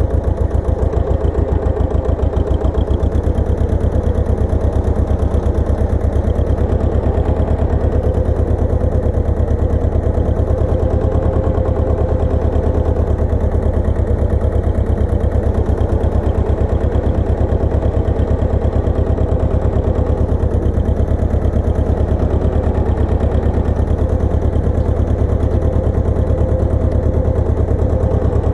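Engine of a Pasquali 980 EX tractor running steadily at an even speed, with a fast, regular chugging beat.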